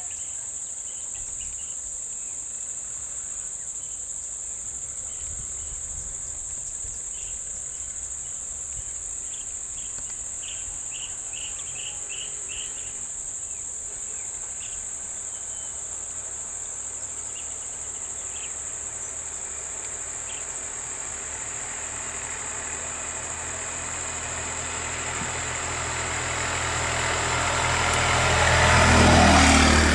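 A steady high-pitched chorus of crickets, with a few short chirps in the first half. From about two-thirds of the way through, a vehicle engine approaches and grows loud, passing close near the end.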